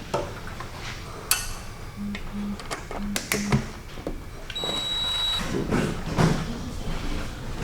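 Workshop handling noise: hand tools clinking and knocking against engine metal, with one ringing metal ping about a second in and a busier clatter near the end.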